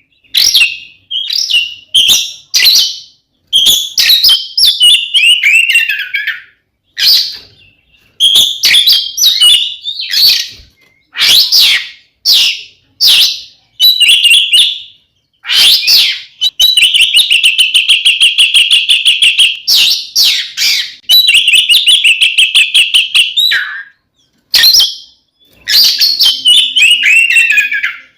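Oriental magpie-robin singing loudly and almost without pause: short whistled phrases, several sliding downward, broken up by long stretches of rapid buzzy trills in the middle. It is the continuous, fighting-mode song that keepers call ngeplong tarung.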